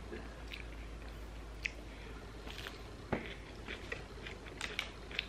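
Close-up eating sounds: chewing and biting of fast food, with scattered small sharp clicks and a crisper one about three seconds in.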